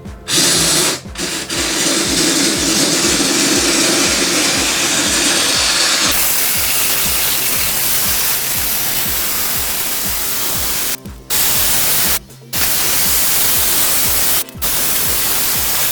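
Steam cleaner jetting steam into an air conditioner, a loud steady hiss. The jet cuts out briefly three times near the end as the trigger is let go.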